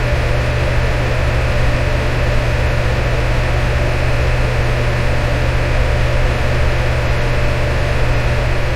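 Electric fan running steadily: an even airy rush over a strong low hum, with a steady mid-pitched tone running through it.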